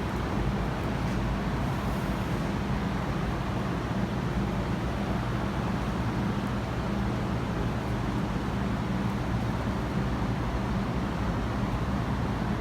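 Steady low mechanical hum and rumble that holds an even level throughout.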